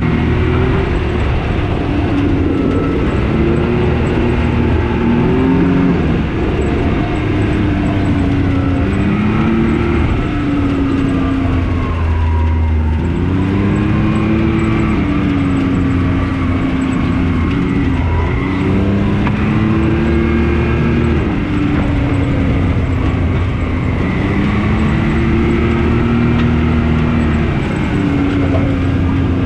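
Engine of an off-road side-by-side running under way, its pitch rising and falling over and over as the throttle opens and eases.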